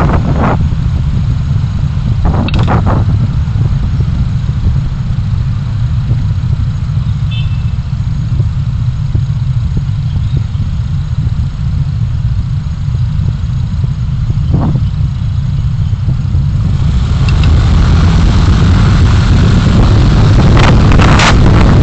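Car driving: a steady low rumble of engine and road noise that grows louder and hissier about three quarters of the way through.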